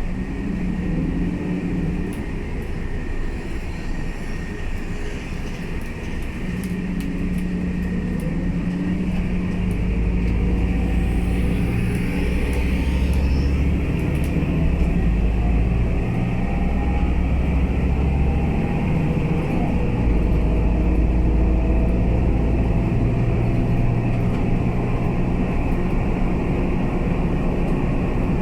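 Scania K320UA articulated bus's diesel engine heard from on board. It runs quieter at first, then grows louder as the bus accelerates about a third of the way in, its low drone stepping in pitch several times as it changes gear.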